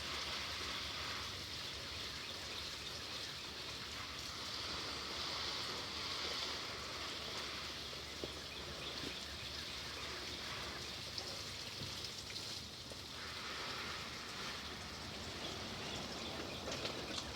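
Steady hiss and patter of falling water.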